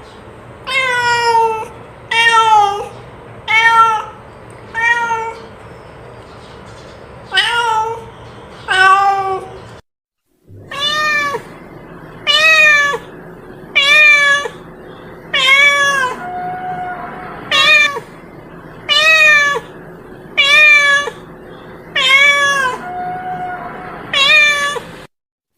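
Domestic cat meowing over and over, about one meow every second and a half, each call rising and then falling in pitch. The meows stop briefly about ten seconds in, then carry on at the same pace.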